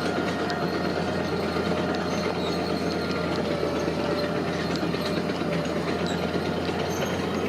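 Heavy earth-moving machinery working: a diesel engine running steadily under a dense, even rumble, with scattered light metallic clicks.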